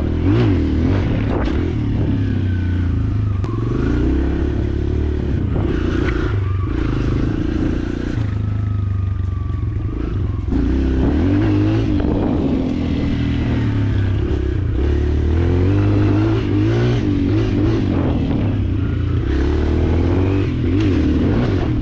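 Dirt bike engine ridden close up, revving up and dropping back over and over as the throttle is opened and closed, with clatter and rattle from the bike over rough ground and a few sharp knocks near the start.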